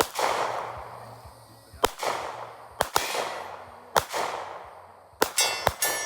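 A .40-calibre handgun fired about six times at an irregular pace, each shot a sharp crack, some trailing off in a long echo. A metallic ringing comes in near the end.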